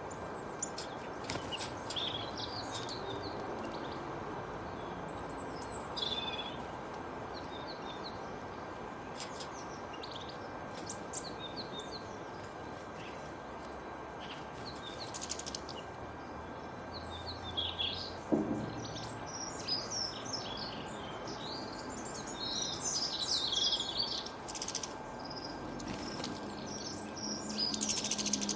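Birds chirping and calling on and off, short high chirps scattered through, over a steady background hiss. A brief low sound comes about two-thirds of the way through.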